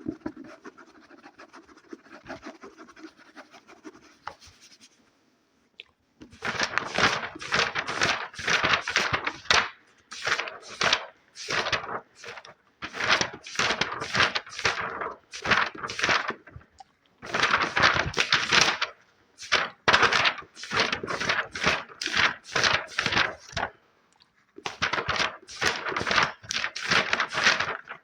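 Fast scratching on an object as an ASMR trigger: runs of rapid, crisp strokes broken by short pauses, after softer rubbing in the first few seconds.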